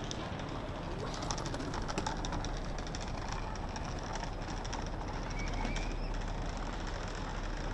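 A pigeon cooing over a steady low rumble of distant city traffic, with a short higher bird call about five and a half seconds in.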